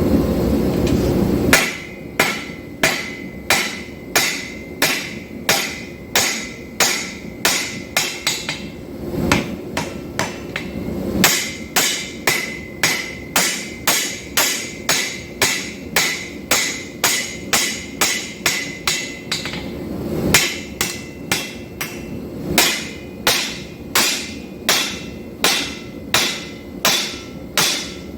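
Hand hammer striking hot steel on an anvil at about two blows a second, each blow with a short metallic ring, in long runs with two brief pauses. A steady roar fills the first second and a half before the hammering starts.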